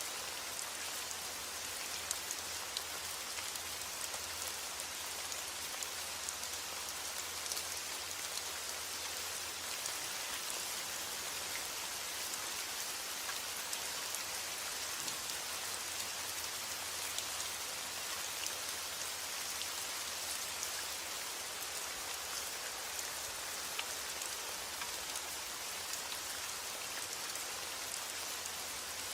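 Heavy rain falling steadily on a roof: an even hiss with scattered sharp ticks of single drops.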